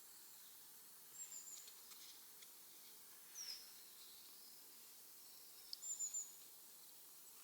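A small bird calling in the forest: three short, high-pitched chirps, the middle one a quick falling note, over a quiet background. A few faint clicks sit between them.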